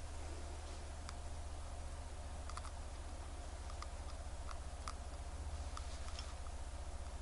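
Light, irregular clicks and small taps, about a dozen scattered through the stretch and some in quick pairs, over a steady low hum.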